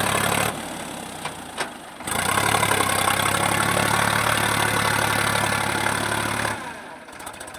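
Sonalika 745 DI tractor's three-cylinder diesel engine running hard under load, pulling a loaded trolley. It eases off about half a second in, comes back loud at about two seconds and holds steady, then drops away again near the end.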